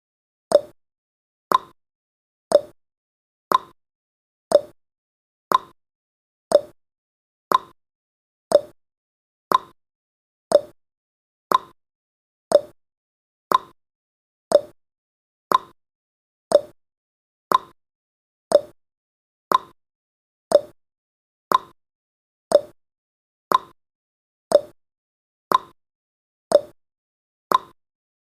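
Countdown timer's ticking sound effect: a short clock-like tick once a second, alternating between two slightly different pitches like a tick-tock.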